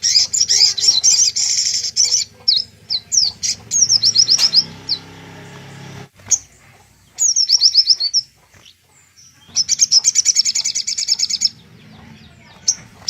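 Little spiderhunter (sogok ontong) singing: several bursts of fast, high trills of evenly repeated notes, the longest near the start and about three-quarters through, with short runs of quick down-slurred notes between.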